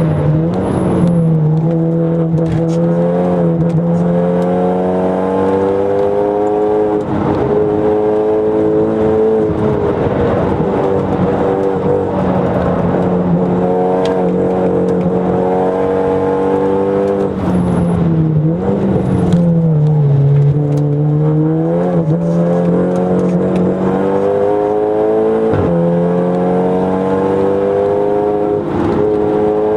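Audi TTS's turbocharged 2.0-litre four-cylinder engine heard from inside the cabin at track pace. The engine note climbs under acceleration and falls back as the car slows, dropping sharply about two-thirds of the way through before rising again, over steady road noise.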